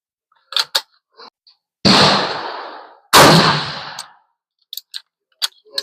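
Two rifle shots about a second and a half apart, the second louder, each ringing off for about a second, with a few faint clicks before and after.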